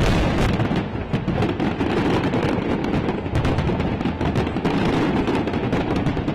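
New Year fireworks display: rapid, overlapping bangs and crackles with a continuous low rumble, mixed with music.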